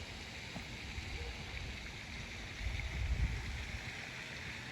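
Wind buffeting the microphone outdoors: an uneven low rumble that swells about three seconds in, over a steady background hiss.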